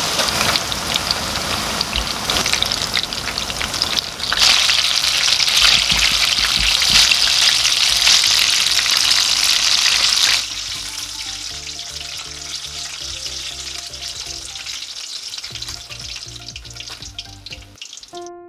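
Batter-coated stuffed chili peppers deep-frying in hot oil: a dense sizzle that gets louder about four seconds in and drops off sharply about ten seconds in. Fainter sizzling continues under soft background music.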